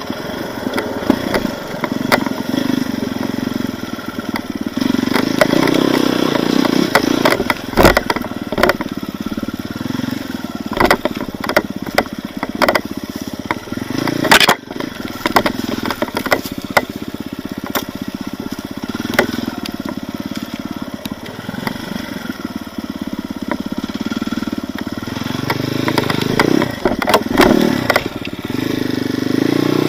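An off-road vehicle's engine running at low revs, swelling and easing, with scraping, knocks and clatter over rough ground, including a couple of hard knocks about 8 and 14 seconds in.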